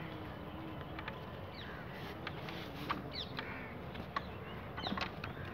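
Birds chirping now and then over a steady outdoor background, with a few sharp clicks.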